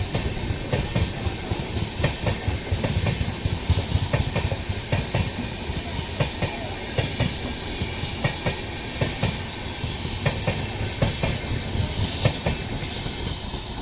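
Coaches of an express train rolling past, the wheels clicking rapidly and irregularly over rail joints above a steady rumble.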